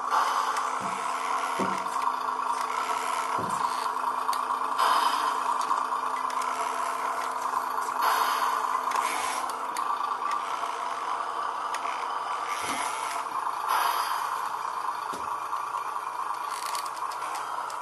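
Small RC truck running, a steady motor-and-gear noise with a loose rattle, swelling louder a few times, with scattered knocks.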